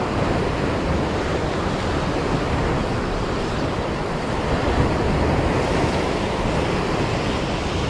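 Steady wash of sea surf breaking on a tetrapod breakwater, with wind buffeting the microphone.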